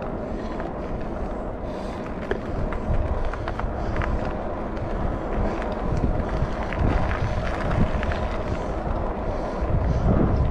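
Riding a Rad Rover Step-Thru electric fat-tyre bike: wind rushing over the microphone with uneven low rumbling gusts, over a steady rolling noise from the tyres.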